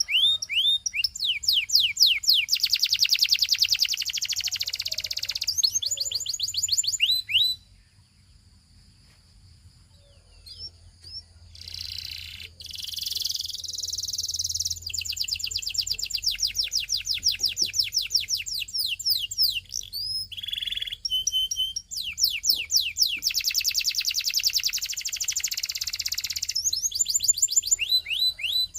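Belgian singing canary singing: fast trills of repeated downward-sweeping high notes and rapid rolls, broken by a quieter pause of a few seconds about a third of the way in before the song picks up again.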